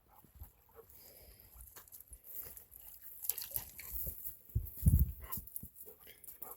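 Dog sounds close to the microphone, with a few loud low thumps about five seconds in.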